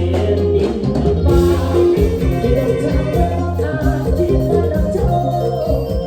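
Isan mor lam band playing a lively toei la song with singing over a strong, moving bass line.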